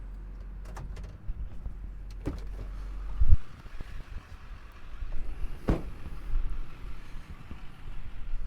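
Duramax diesel pickup truck with a steady low engine hum, then a loud thud about three seconds in, after which the hum gives way to an uneven low rumble. A few sharp clicks are scattered through.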